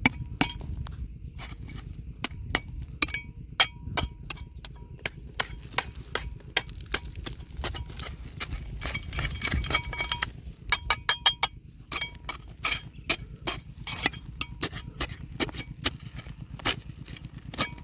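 Rocks and gravel being dug and scraped for gold: many quick, irregular clinks and knocks of stone on stone and tool on stone, over a low steady rumble.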